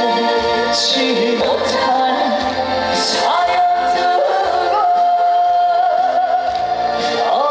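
Live trot music from a band with a pulsing bass. The melody holds one long, steady note from about two seconds in until near the end.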